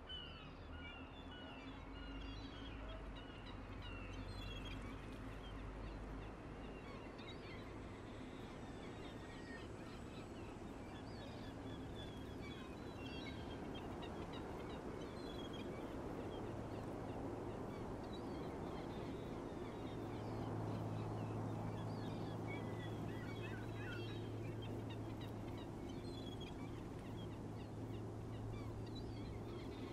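Birds chirping and calling, many short repeated calls, over a steady background rush; a low steady hum comes in about two-thirds of the way through.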